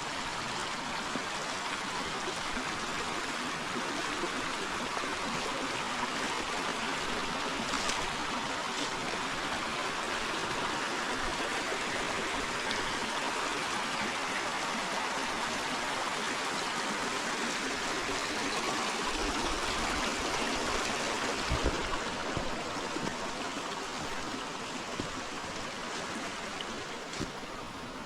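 A river's water rushing and splashing over rocks in a steady flow, growing a little louder in the middle and easing toward the end.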